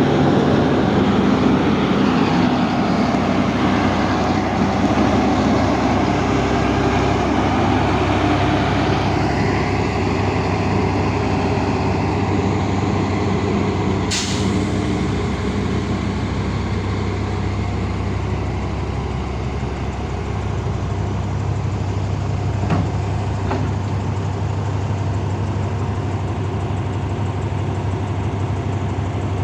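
Heavy diesel engine running steadily, busier in the first several seconds and then settling. There is one brief sharp hiss about fourteen seconds in.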